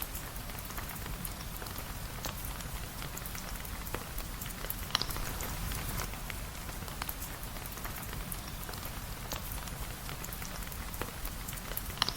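Steady rain falling on a surface, with scattered sharp ticks through it and two louder ones about five seconds in and near the end.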